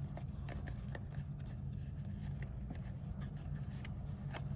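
Light crinkling and scraping of a foil baseball-card pack being torn open by hand and its cards handled, in scattered small clicks over a steady low hum.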